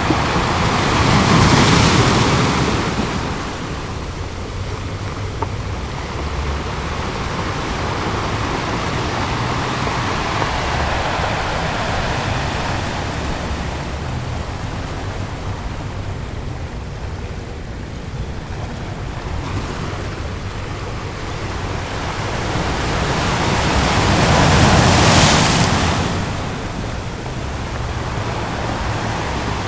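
Ocean surf: a steady wash of waves, with two bigger waves breaking and swelling louder, one about two seconds in and one near the end.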